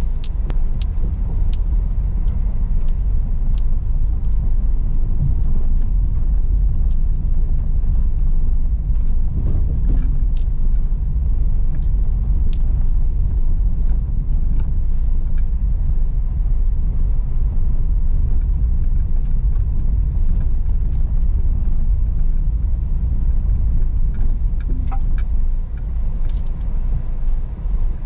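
Car driving on a rough unpaved road: a steady low rumble of tyres and engine, with scattered small clicks and knocks.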